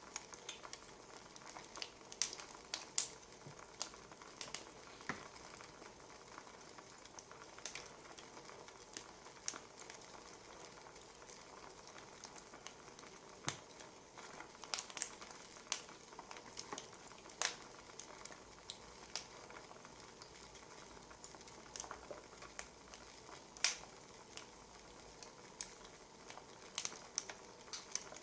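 Wood fire burning, crackling with irregular sharp pops and snaps over a steady soft hiss.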